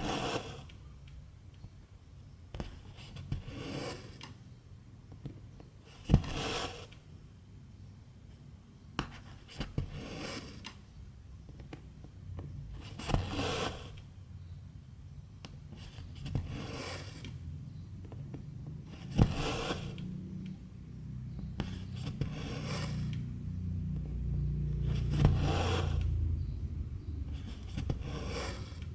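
Silk embroidery thread being pulled through 11-count cross-stitch fabric: a short hissing stroke about every three seconds, one per stitch. Twice comes a sharp click, and a low rumble rises in the second half.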